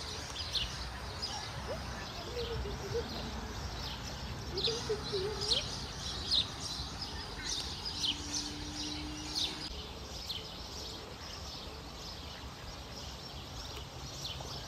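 Small birds chirping: many short, high chirps scattered all through, over a low steady rumble.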